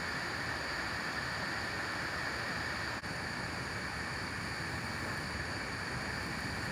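Steady rushing water noise from rain and flowing water, with constant high tones above it and a momentary dip about three seconds in.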